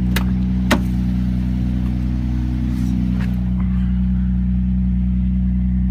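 Car engine idling steadily, with a single sharp click a little under a second in.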